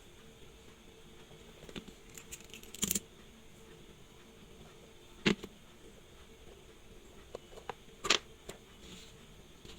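Small metal watchmaker's tools clicking and tapping on the bench during watch repair: a few sharp clicks, the loudest about five and eight seconds in, with fainter taps between, over a low steady hum.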